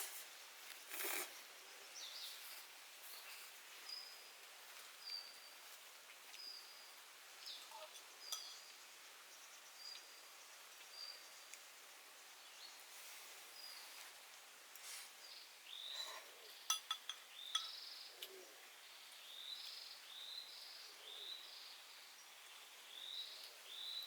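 Wild birds calling over a faint steady hiss of forest and rain ambience: a run of short, high single notes repeated about once a second, then a quicker series of chirps in the later part. A few sharp clicks come about two-thirds of the way through.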